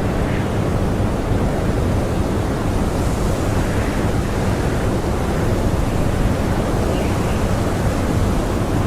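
Blizzard wind blowing hard and steadily: a dense rushing noise with a heavy low rumble and slight gusts swelling and easing.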